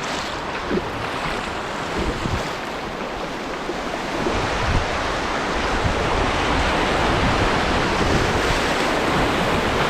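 Steady rush of moving creek water, with wind buffeting the microphone in irregular low gusts; the rushing grows a little louder toward the end.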